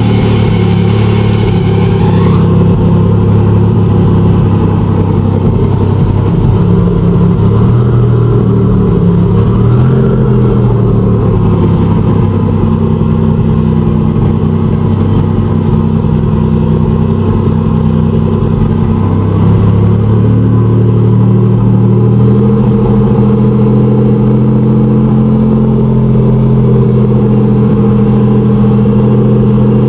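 Nissan 300ZX Z31's freshly rebuilt VG30ET turbocharged 3.0 L V6 idling, heard from inside the cabin; the idle is running a little high. Its pitch wavers briefly about ten seconds in, then holds steady.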